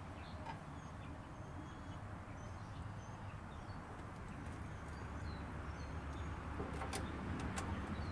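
Faint small-bird chirps over a low steady rumble, with two sharp clicks close together near the end.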